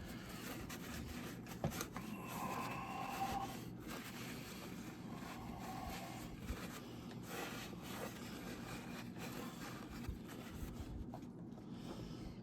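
Faint rubbing, scraping and light clicks of hands working the wet-and-dry sandpaper and nylon webbing off a crankshaft's connecting rod journal. There are a couple of brief higher-pitched rubs, about two and five seconds in.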